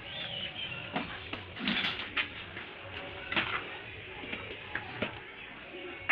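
Scattered knocks and clatter of hand tools and materials during plumbing work on a wall: about half a dozen sharp taps at uneven intervals, the loudest near two seconds in and just past three seconds.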